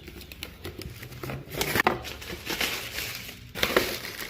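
Rustling and crinkling with small clicks and knocks as a new distributor's packaging is handled.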